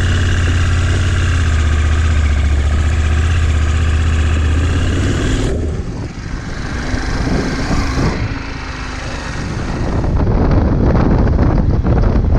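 Motorcycle riding: a steady low engine drone under road and wind noise. The sound changes abruptly about five and a half seconds in, to a rougher, noisier rush, and shifts again near eight and ten seconds.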